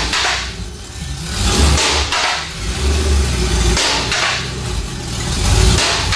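GM LS V8 in a Jeep running through its exhaust and being revved several times, swelling and falling back between blips.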